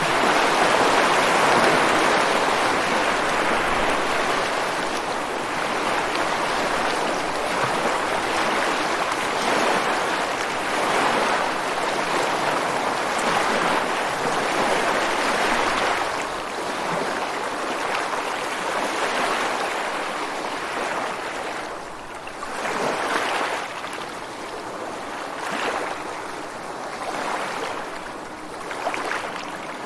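Ocean waves breaking and washing ashore. A long, loud wash at the start slowly subsides, then several smaller, quieter surges follow near the end.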